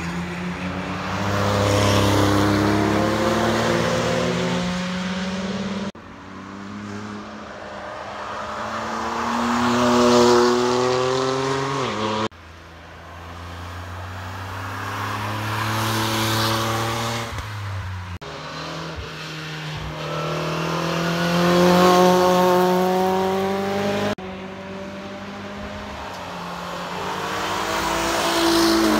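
Cars passing at speed one after another on a wet track, cut together as about five separate pass-bys roughly six seconds apart. Each engine note climbs and grows louder as the car accelerates toward the microphone, with tyre hiss at the loudest point, before the sound cuts to the next car.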